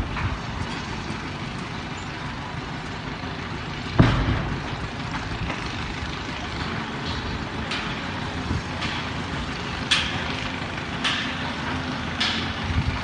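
Steady rumble of heavy machinery on a construction site, broken by one loud, deep thud about four seconds in and a run of sharp knocks later on.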